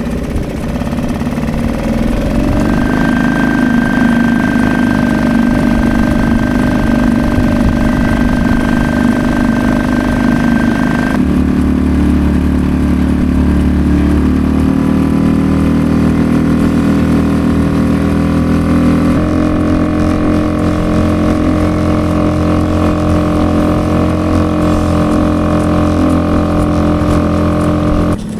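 A boat engine running steadily with a droning hum. Its pitch shifts abruptly twice, about eleven and nineteen seconds in.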